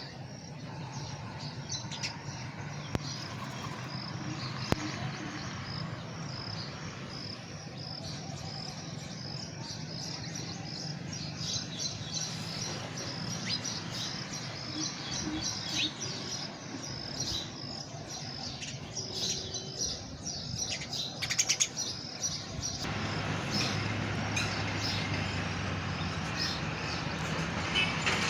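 Birds chirping: many short, high calls over an evenly repeating high chirp. About two-thirds of the way through, the background grows louder with a low hum.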